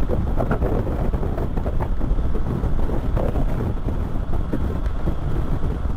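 Wind buffeting the camera microphone: a steady low rumble with uneven gusts.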